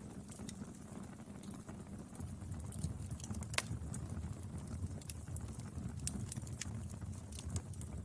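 Wood fire burning with a steady low rumble and frequent small crackles and pops, one sharper crack about three and a half seconds in.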